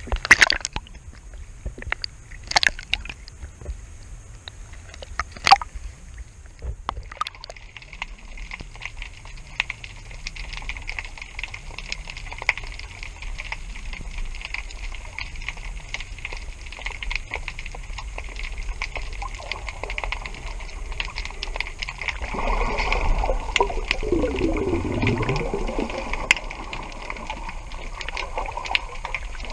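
Water sloshing and gurgling against a sailboat's hull, with several sharp knocks in the first seven seconds and a falling tone about three-quarters of the way through.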